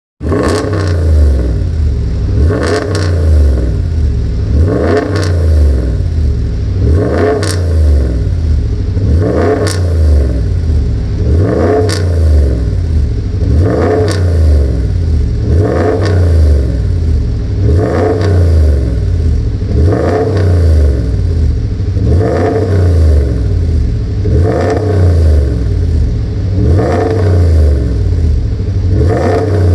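Dodge Ram pickup's exhaust, fitted with a chambered-type center muffler, as the engine is blipped again and again: each rev rises and falls, about one every two seconds, over a steady rumble.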